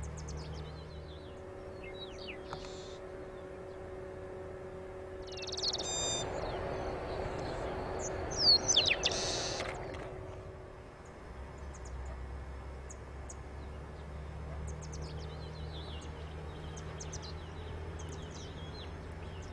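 Birds calling with many short high chirps and quick downward-sweeping calls scattered throughout. A stretch of rushing noise runs from about five to ten seconds in, with the loudest calls near its end.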